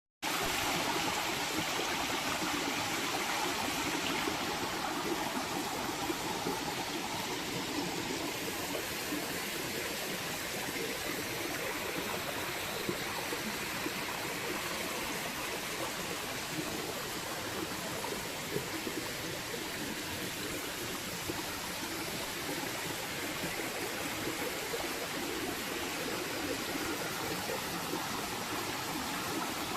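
Flowing water running steadily with a constant rushing sound.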